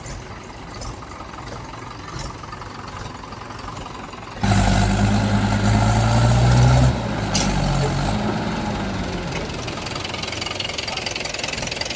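Mahindra tractor's diesel engine running. About four and a half seconds in it suddenly gets much louder and revs up, its pitch climbing slightly. A little before the seven-second mark the pitch drops away and it settles back to a steady run.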